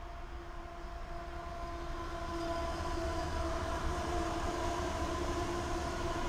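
Freight train's diesel locomotives (Canadian Pacific, Norfolk Southern and Santa Fe-painted units) passing close by: a steady engine and rail rumble with a whine of several steady tones that grows louder from about two seconds in as the units go past.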